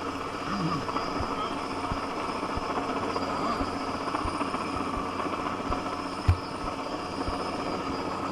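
Helicopter crane's engine and rotor running steadily, with one sharp knock about six seconds in.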